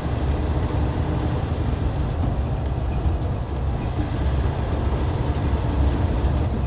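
Hyundai Universe coach's D6CC Powertec 380 inline-six diesel engine running steadily: a deep, even rumble with no change in pitch.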